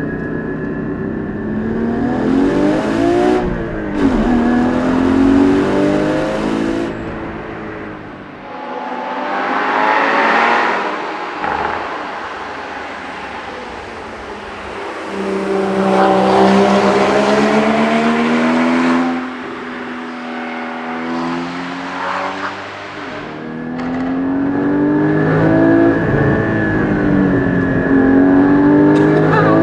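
Porsche 981 Cayman GT4's 3.8-litre flat-six being driven hard through a six-speed manual, its revs climbing under acceleration and dropping at each gear change and lift-off, several times over.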